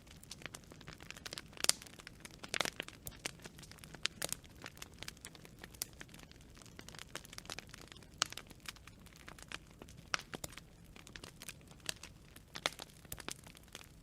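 Wood campfire crackling: irregular sharp snaps and pops, several a second and uneven in loudness, over a faint steady hiss of burning.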